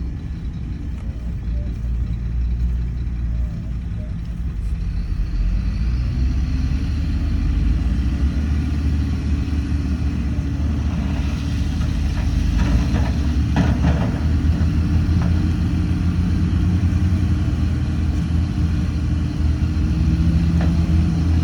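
Heavy diesel engine of earthmoving equipment running under load, revving up about five seconds in, with a spell of rattling clanks in the middle.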